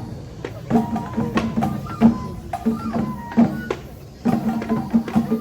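Japanese festival music accompanying a lion dance: drum strikes at an uneven beat under a high, held melody line that bends in pitch.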